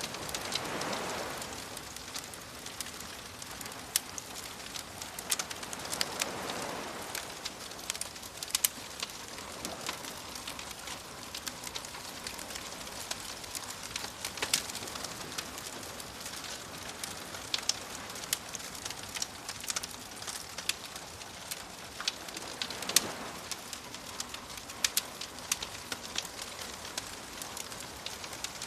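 Campfire crackling with frequent sharp pops, over soft waves that swell in and wash out three times.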